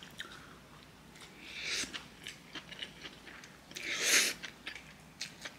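A person chewing crunchy chonggak (ponytail radish) kimchi, with small clicks of the mouth and two louder crunches, about one and a half seconds in and, loudest, about four seconds in.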